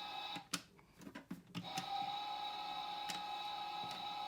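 Just Like Home toy dishwasher running its drying cycle: a steady electric hum that stops for about a second near the start, with a few clicks in the gap, then starts again and runs on.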